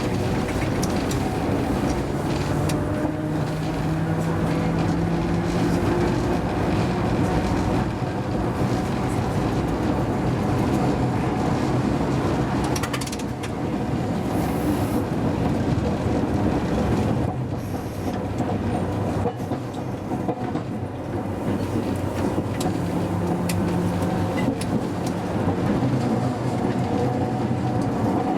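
Hakodate City Tram car No. 530 running, heard from the driver's cab: a steady rolling rumble of wheels on rail, with a motor hum that comes in twice and a few sharp clicks.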